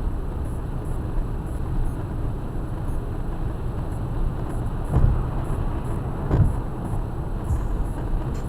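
Steady low road and engine rumble of a car driving on a highway, heard from inside the cabin, with two short low thumps about five and six and a half seconds in.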